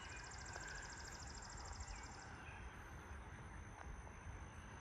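Faint outdoor ambience: a rapid, evenly pulsed high insect trill that stops a little past two seconds in, leaving a thin steady high tone, with a few faint bird chirps over a low wind rumble.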